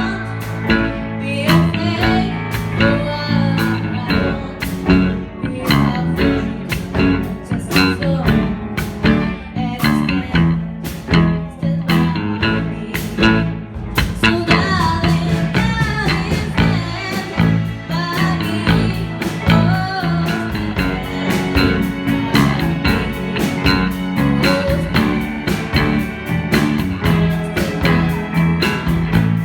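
Band music in a blues-rock style: guitar and a steady beat of sharp hits, with a voice singing, clearer from about halfway through.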